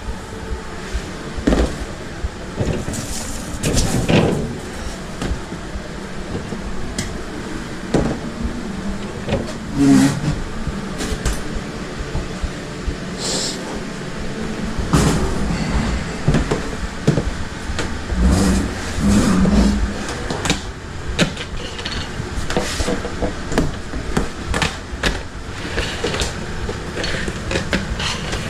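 Food-truck kitchen work: a steady background hum with frequent clatter, clicks and knocks of utensils and equipment being handled, and a few heavier thuds.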